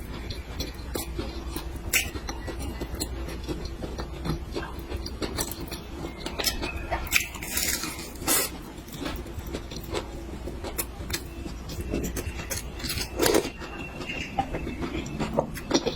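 Close-miked eating: chewing with many short wet mouth clicks and an occasional scrape of a utensil, over a steady low hum.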